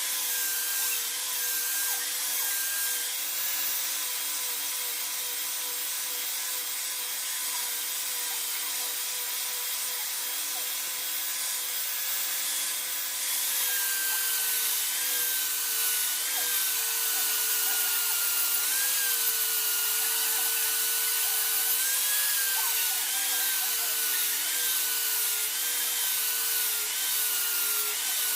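Electric power tool motor running with a steady whine over a hiss of work. Its pitch dips again and again in the second half, as the tool is loaded.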